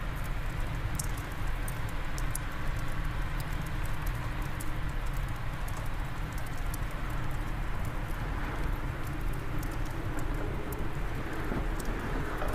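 Fire crackling in a fireplace, with many small sharp pops scattered irregularly, over a steady rush of wind.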